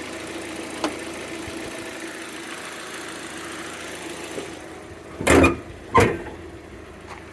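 Hyundai Elantra engine idling steadily after a valve cover gasket repair, its hum dropping away about four and a half seconds in. Two loud thumps follow close together, about two-thirds of a second apart.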